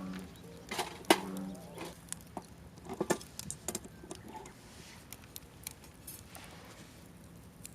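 Irregular sharp clicks and knocks, loudest in the first three seconds or so and thinning out after that.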